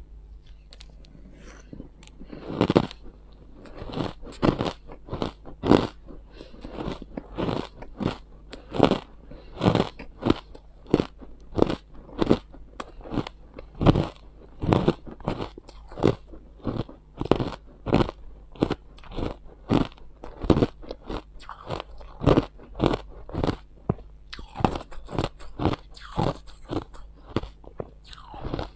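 Ice being bitten and chewed close to the microphone: a steady run of sharp crunches, about one to two a second, over a low steady hum.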